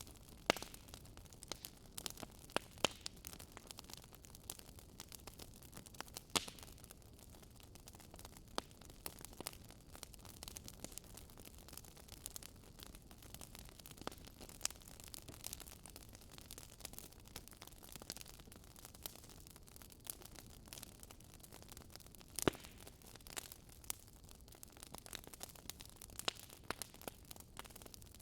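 Wood fire burning in a fireplace, crackling: irregular sharp pops and snaps, a handful of them much louder, over a soft steady hiss.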